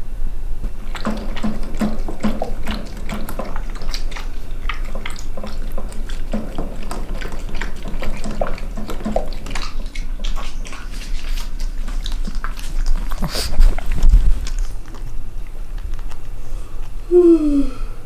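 A dog making wet, smacking mouth noises: rapid irregular clicks and slurps. A louder bump comes about three-quarters of the way through, and a short falling squeak near the end.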